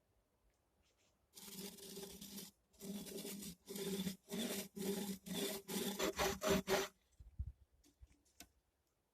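A tool cutting wood in repeated rasping strokes, about eight of them, which get shorter and quicker toward the end; a soft low thump follows.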